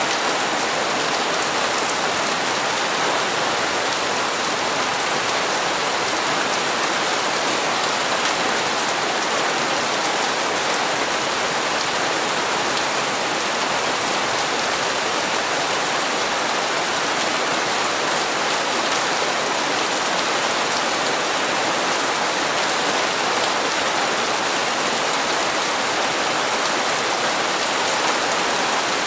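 Steady, even rainfall falling on hard surfaces, with no thunder or other sounds standing out.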